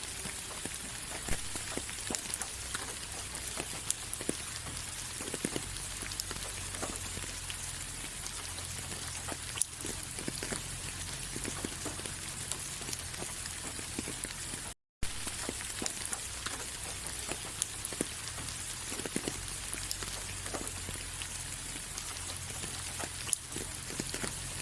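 Steady rain falling, an even hiss with scattered individual drops pattering. The sound cuts out completely for a split second about fifteen seconds in.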